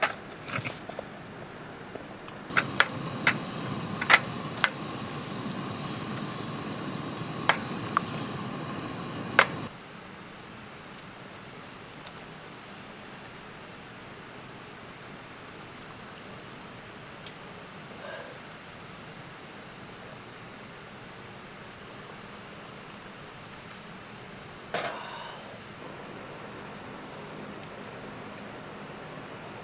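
Insects chirring steadily, with a faint pulsing above the main tone. Over the first third come sharp clicks and taps of cooking utensils over a sizzling pan, and the sizzle cuts off about ten seconds in.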